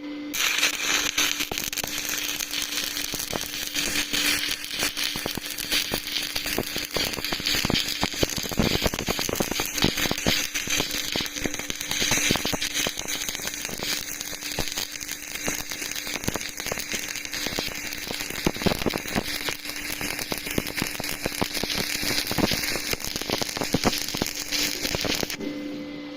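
Stick welding arc crackling and popping continuously for about 25 seconds. It starts abruptly just after the start and cuts off suddenly near the end, as the arc is struck and then broken.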